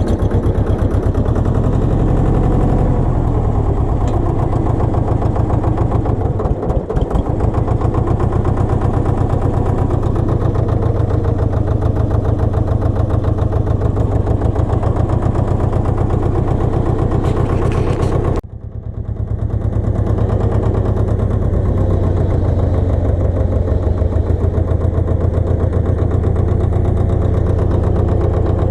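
Pasquali 980 EX compact tractor's engine running steadily with a fast, even firing pulse. About two-thirds through the sound drops off sharply and builds back up over a second or so.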